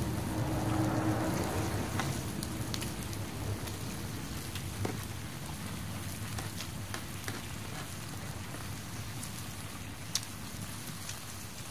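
Pork belly sizzling on a hot stone slab over a wood fire: a steady hiss with scattered sharp pops and crackles. A low hum underneath fades out about two seconds in.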